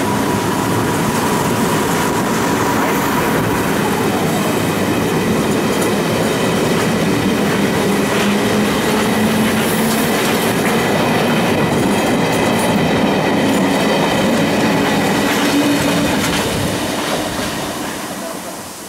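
London Underground A Stock train running past at close range: a steady, loud rumble of wheels on rail with occasional clicks over rail joints. It fades out over the last few seconds.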